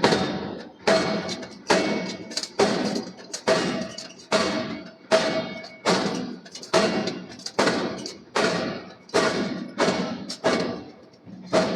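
A steady rhythm of heavy strikes, a little more than one a second, each followed by a ringing tail that fades before the next.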